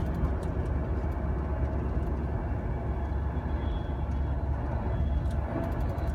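Class 390 Pendolino electric train running along the line, heard from inside the carriage: a steady low rumble, with a few light clicks about five seconds in.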